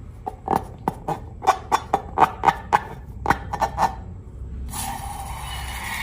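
Slime squelching and popping as it is pressed and pulled: about fifteen sharp, sticky clicks in quick succession, then a steady hissing noise from near the end.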